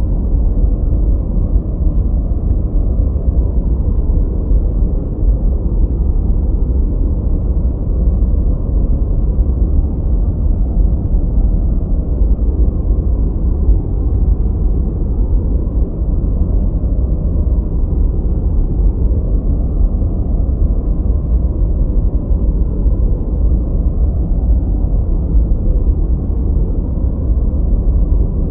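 Steady, unchanging noise of the kind sold as 'white noise' for study or sleep, here deep and muffled, with the weight in the bass and almost nothing in the highs.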